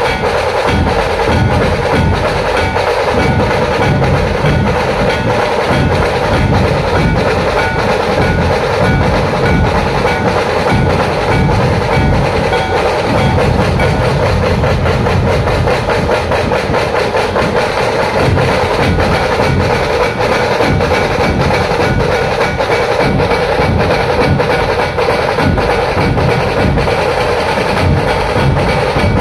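Drum-led music: fast, dense percussion strokes at a steady loud level, without a break.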